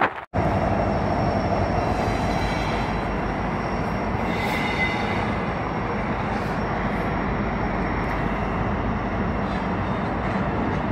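Freight train rolling through a rail yard: a steady rumble from the locomotives and cars, with faint high-pitched wheel squeal over it. The sound cuts out for a moment just after the start.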